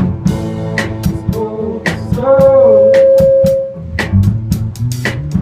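A band playing live: a drum kit keeping a steady beat under guitar chords and bass. About two seconds in a long held note rises above the band for over a second, the loudest part of the passage.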